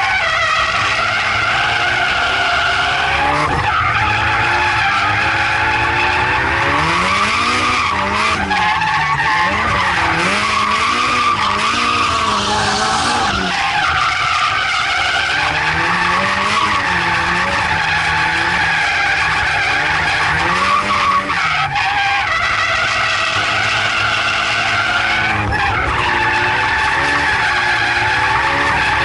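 Nissan S13 Silvia's turbocharged SR20 four-cylinder engine held high in the revs while drifting, its pitch rising and falling again and again as the throttle is worked, over the hiss of tyres sliding.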